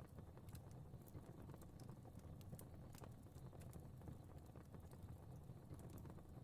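Quiet crackling fire: irregular small sharp crackles over a low, steady rumble of burning.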